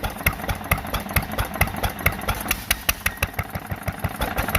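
1940s Fairbanks Morse 3 hp single-cylinder hit-or-miss engine running on its hit-or-miss governor: a steady train of sharp mechanical knocks, several a second, with a louder beat about twice a second.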